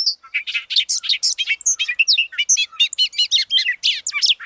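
Bobolink singing: a long, rapid, bubbling jumble of tinkling, bending notes with no pause, the burbling song likened to R2-D2.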